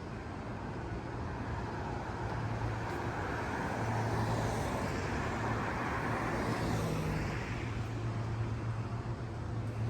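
Road traffic: a passing vehicle's tyre and engine noise swells through the middle and eases off near the end, over a steady low hum.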